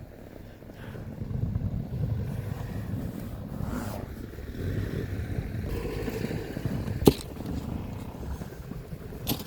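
Car engine running with a low, uneven rumble as the car is worked out of a snowed-in driveway. There is a sharp knock about seven seconds in and another just before the end.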